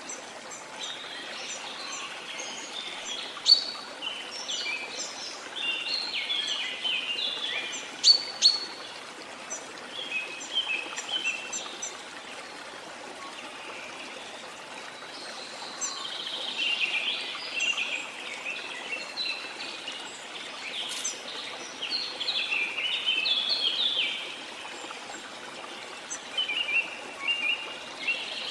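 Small songbirds chirping and twittering in busy spells, with a quieter lull midway, over a steady wash of sea noise.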